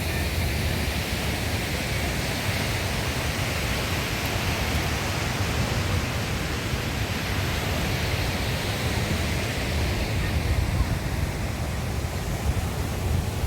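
Steady rush of surf from waves on a rocky shore, with a low rumble underneath.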